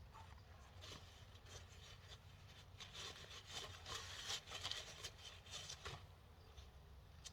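Faint rubbing and scraping of greasy parts being handled, in a run of short strokes between about three and six seconds in, over a low steady hum.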